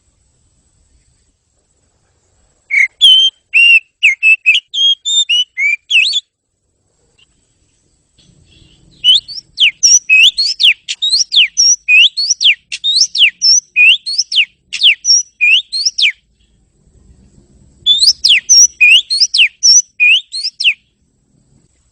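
Oriental magpie-robin (kacer) singing in three bouts of quick, clear whistled notes. The longest, in the middle, is a run of repeated upward-sweeping whistles at about two a second.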